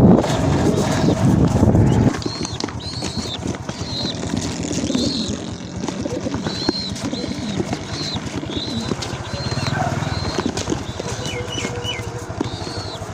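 A small bird chirping over and over, short high arched notes every half second to a second, with a few quick falling notes about eleven seconds in. A heavy low rumble at the start cuts off sharply about two seconds in.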